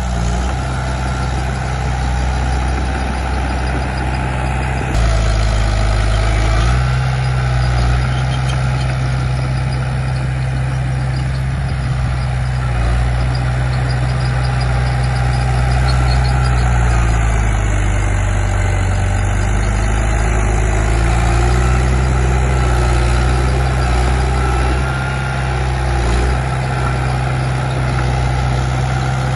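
Heavy diesel engine of earth-moving machinery running continuously, its note stepping up and down several times as the load changes.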